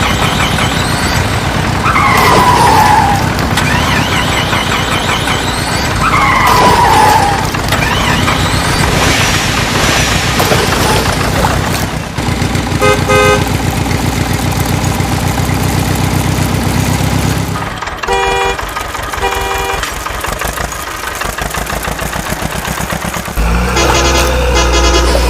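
Cartoon-style vehicle sounds: an engine runs steadily for most of the stretch, with two falling whistle-like glides in the first few seconds. Horn toots sound about halfway through and again a few seconds later, and the engine drone drops away. Loud music with a heavy low beat comes in near the end.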